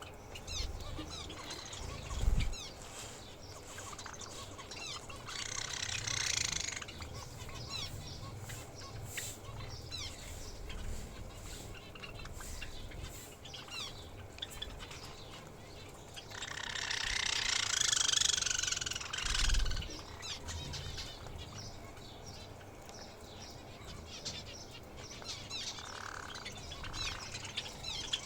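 Many small cage birds chirping continuously, with dense quick high tweets. A rustling rush comes about six seconds in and a longer one past the middle, and there are two low thumps.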